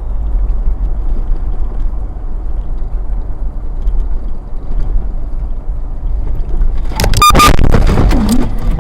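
Car driving, recorded by a dash cam, with a steady low rumble of road and engine noise. About seven seconds in comes a sudden loud burst of knocks and clatter with a brief high beep.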